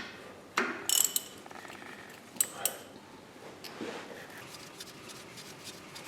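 Metal tools clinking and knocking, a few sharp taps with a brief metallic ring about a second in and two more taps a little later.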